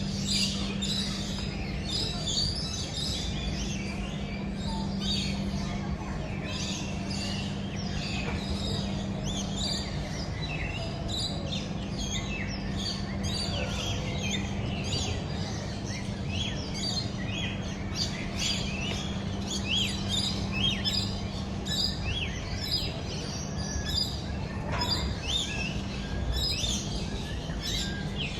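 Many birds chirping and calling at once, a dense stream of short, quick notes and little sweeps, over a steady low hum and rumble.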